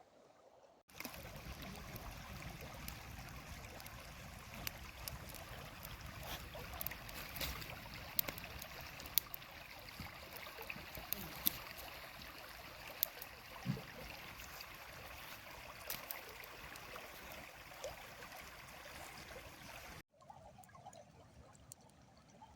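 Stream water trickling and running steadily, with scattered sharp clicks. It starts abruptly about a second in and cuts off suddenly near the end.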